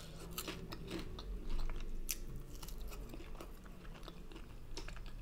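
A person chewing and biting food close to the microphone, with many small, sharp mouth clicks and crunches.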